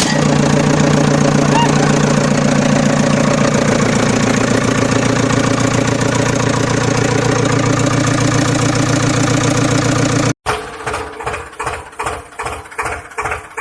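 An engine running steadily with a fast, even chug. About ten seconds in there is a sudden cut to a different engine-like sound that pulses about three times a second.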